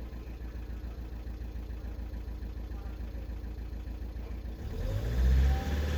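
VW 1.6 TDI four-cylinder diesel idling with an even low pulse, then about four and a half seconds in its revs rise and hold higher. The engine is one whose injector correction values point to a bad injector.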